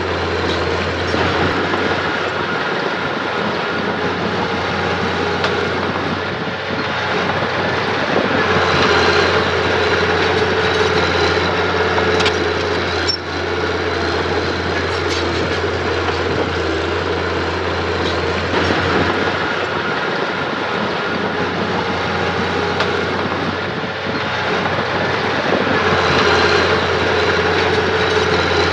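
Mitsubishi mini bulldozer running steadily with its steel tracks clattering, the sound swelling louder a few times as it works.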